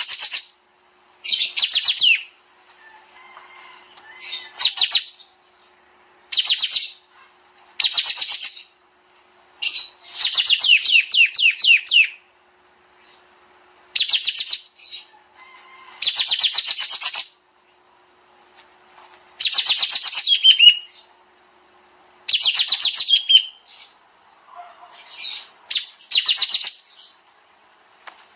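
Kapas tembak songbird singing in repeated bursts of rapid, closely packed high notes, the fast "shooting" trill (tembak) prized in this bird, each burst about a second long with short pauses between.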